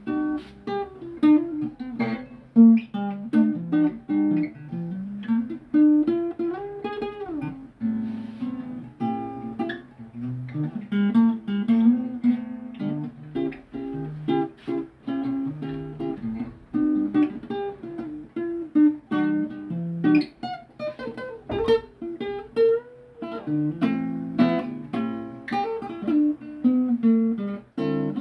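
Acoustic guitar played as an improvisation, with plucked notes and strums and a few notes that slide in pitch.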